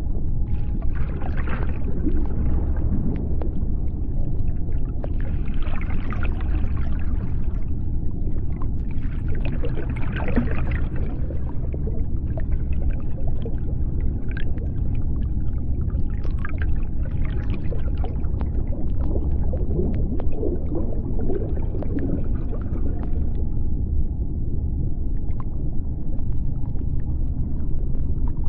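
Underwater ambience: a steady deep rumble, with washes of higher hissing water noise swelling and fading every few seconds.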